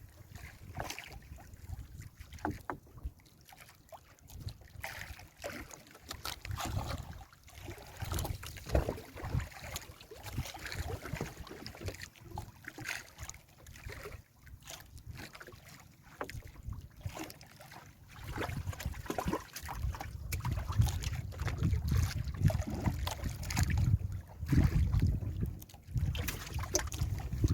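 Wind gusting on the microphone over water splashing around a small fishing boat in rough sea, with scattered knocks; the gusts grow louder about twenty seconds in.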